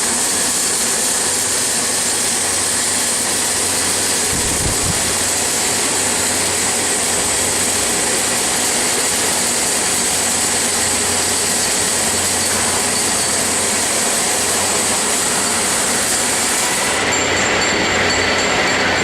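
Automatic double-gun ring seam welding machine running: a steady, loud, hissing noise that changes in tone near the end.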